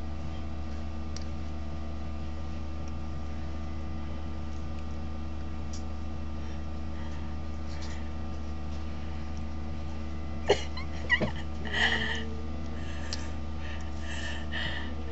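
Steady electrical hum with room noise. About ten seconds in come a few sharp clicks, then a brief wordless vocal sound.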